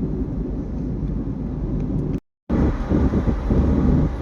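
Steady low road and engine rumble of a car driving, heard from inside the cabin. It cuts out completely for a moment about two seconds in, then returns a little louder.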